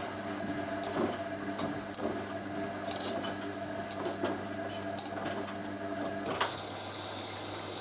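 Hoover A3060 washing machine taking in water at the start of its wash: a steady mechanical hum with scattered sharp clicks, which stops about six seconds in, leaving a steadier hiss.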